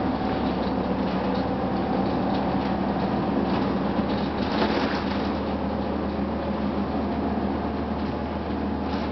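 2004 Gillig Phantom transit bus's Cummins ISM inline-six diesel running steadily with the HVAC system on, a low even drone with a few light rattles about halfway through.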